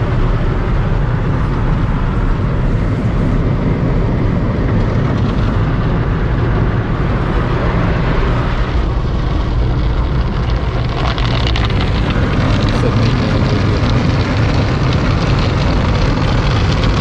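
Automatic car wash machinery running steadily around the car: a loud low rumble and hum, with more hissing coming in about eleven seconds in.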